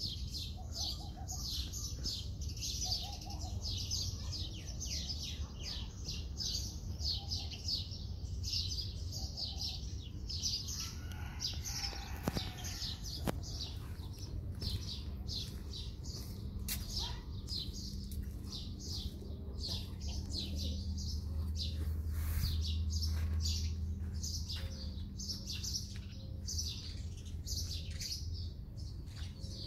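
Small birds chirping continuously, many quick high chirps a second. A low steady hum runs underneath, growing louder about two-thirds of the way through.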